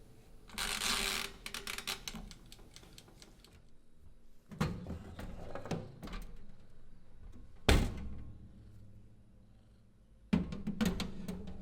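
Kitchen handling noises: a short rustle, scattered clicks and knocks, and one sharp knock partway through. Background music comes in near the end.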